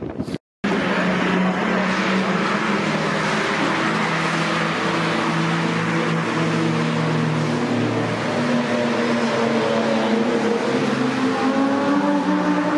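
Supercar engine running hard on a race circuit, holding a steady, loud note, with a second engine note rising near the end as another car accelerates. The sound drops out completely for a moment just after the start.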